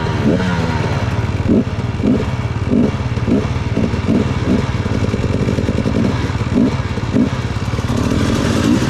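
Dirt bike engine running under riding load, its pitch jumping up in short throttle blips about every half second to a second.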